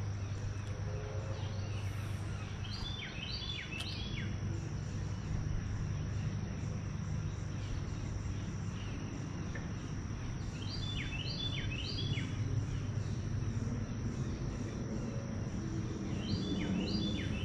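Outdoor pond-side ambience: a songbird sings three short phrases of quick, downward-sweeping notes, several seconds apart, over a steady low hum and a thin steady high-pitched tone.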